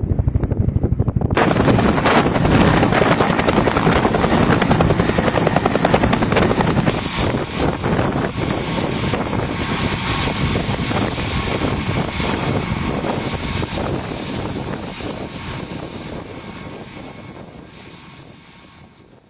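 UH-1N Huey helicopter flying past, its rotor blades chopping loudly. About seven seconds in a high turbine whine joins the chop, and the sound then fades steadily as the helicopter flies away.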